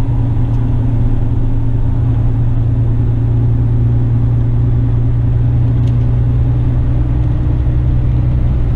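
Western Star tipper truck's diesel engine running with a steady low drone.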